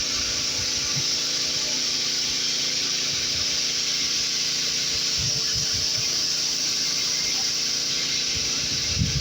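Pressure washer spraying water onto a car: a loud, steady hiss that starts abruptly just before and holds even throughout, with a faint steady hum underneath.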